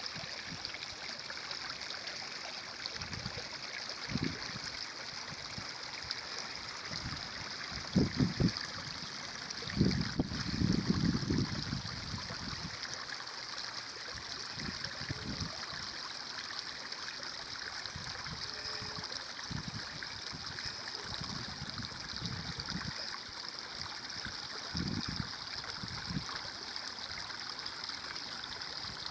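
A stream running steadily with an even rushing trickle, broken by irregular deeper gurgles, the loudest a quick cluster about a third of the way in and a longer one just after.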